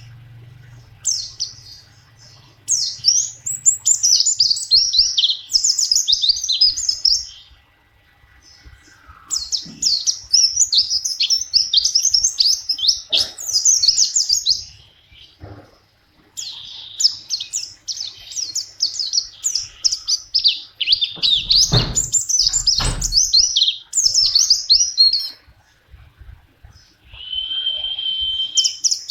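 Pleci (white-eye) songbird singing long, fast, high-pitched twittering phrases in bursts of several seconds separated by short pauses, ending with one held whistle-like note. A couple of low thuds sound about two-thirds of the way through.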